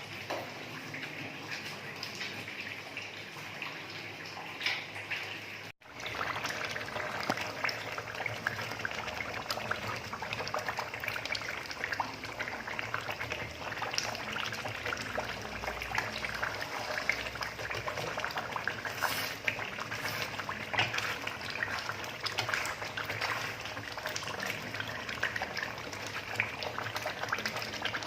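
Food cooking in a pan: a steady, dense crackling and bubbling, broken by a brief drop-out about six seconds in.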